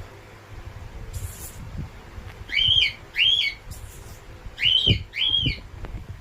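A pet animal's high-pitched calls: four short, arched cries, each rising and falling, given in two pairs.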